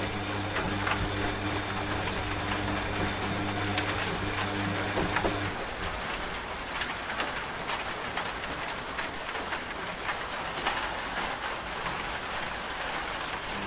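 Steady rain with many scattered drop taps, over the low steady hum of a running washing machine. The hum stops about five seconds in, leaving rain alone.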